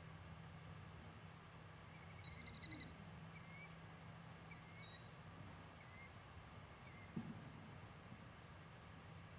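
A small bird calling faintly: a short high trill about two seconds in, then four short chirps about a second apart. A faint low hum runs underneath, and there is one soft thump near the end.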